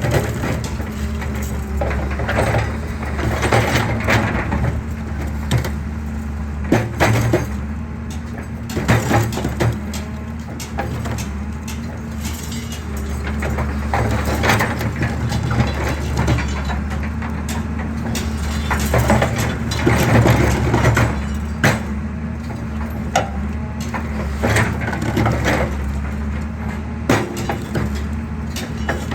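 Excavator engine running steadily while concrete is crushed, with frequent irregular cracks and crunches of breaking concrete over the engine hum.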